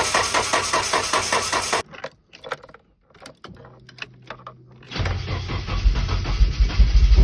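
Nissan 240SX's turbocharged KA24DET four-cylinder being cranked on the starter in a rhythmic churn that stops about two seconds in. A few clicks and a short low hum follow, then about five seconds in the engine catches and runs, getting louder near the end: its first start after the build.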